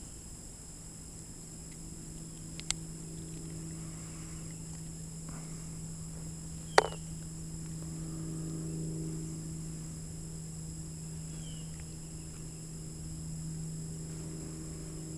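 Steady high-pitched insect chorus of crickets and katydids droning without a break, over a steady low hum. Two sharp knocks cut through it: a small one about three seconds in and a louder one about seven seconds in.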